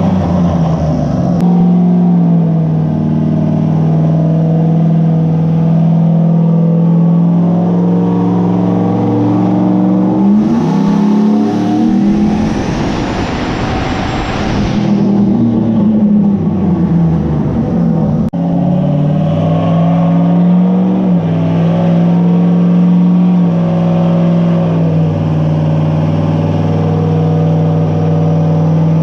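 Vehicle engine running at a steady speed. About ten seconds in, its pitch rises with a rush of hiss, then falls back and holds steady again.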